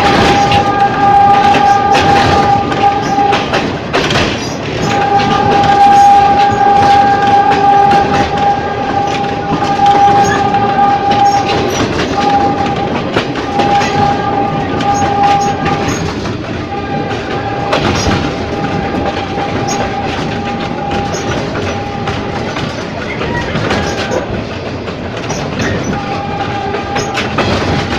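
Ex-JR 203 series electric multiple unit running over jointed track: a steady rumble with frequent wheel clicks over rail joints. A steady high tone with overtones sounds in stretches of a few seconds and cuts out between them, dropping out about four seconds in and for a longer spell in the last third.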